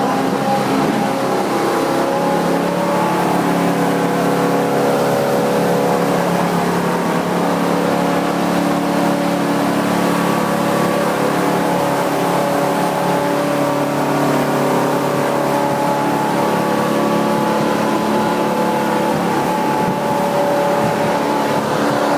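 A 10 hp outboard motor running steadily at a constant pitch.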